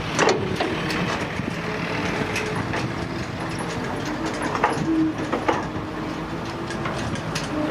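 Excavator's diesel engine running steadily under work, with sharp metallic clanks: a loud one just after the start and several more around five seconds in.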